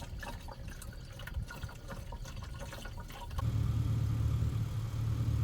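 Washer fluid being poured into a truck's windshield washer reservoir, trickling and gurgling as it fills. A little over three seconds in, a steady low engine idle comes in: the Chevrolet Silverado 1500 running.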